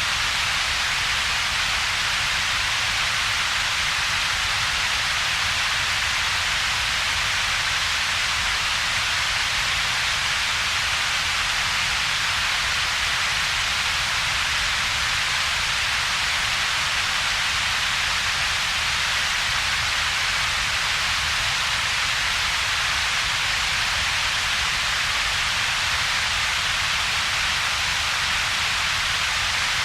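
Steady synthesized double-peaked noise: a strong hiss centred in the upper-middle range and a weaker low rumble, with a gap between them. It holds constant throughout.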